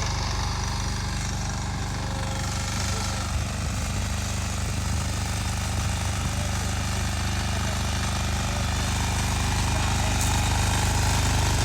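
Two-wheel walking tractor's engine running steadily, growing slightly louder towards the end.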